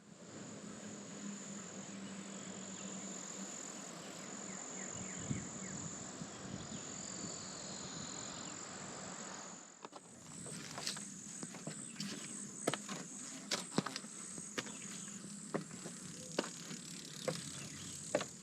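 Insects buzzing steadily in the woods, a high-pitched drone with a faint low hum beneath it. About ten seconds in, irregular sharp clicks and knocks join in.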